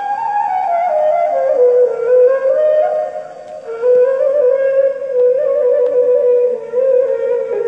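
Ney, the Turkish end-blown reed flute, playing a slow melody solo: a phrase stepping down in pitch, a short breath about three and a half seconds in, then a long, lightly ornamented note held low.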